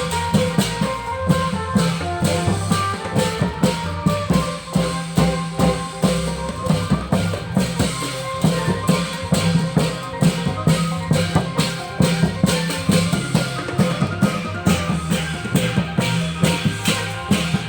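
Thai klong yao long-drum band playing: drums and cymbals keep a fast, steady beat under a melody line.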